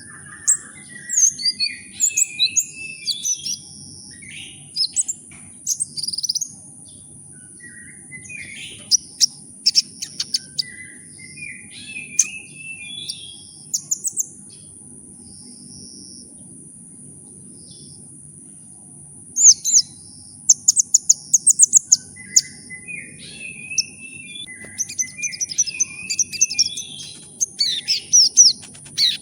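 Songbird song in bursts of rapid, high chirps and fast trills mixed with short falling whistled phrases, broken by a lull of a few seconds about halfway through. A steady, thin high-pitched whine runs underneath.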